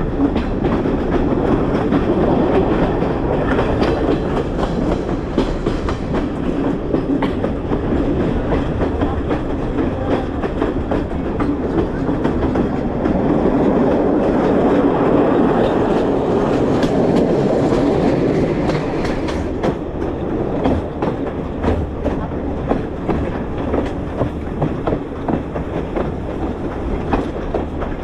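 Passenger train running, heard from aboard a carriage: a steady rumble of wheels on the rails, with a regular clickety-clack over the rail joints in the last third.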